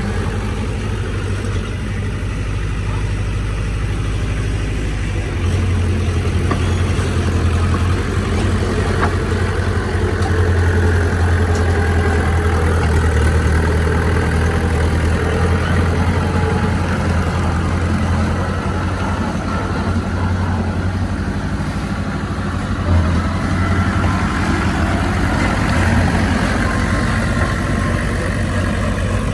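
Heavy diesel engine of earthmoving machinery running steadily, its low hum growing louder from about five seconds in as it works harder.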